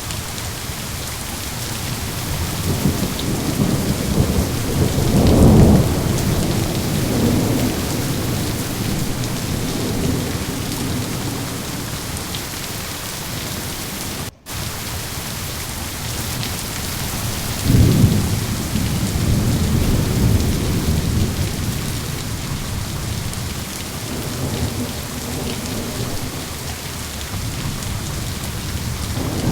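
Steady rain with rolling thunder. The rumbles swell loudest about five seconds in and again around eighteen seconds. The sound cuts out for a split second near the middle.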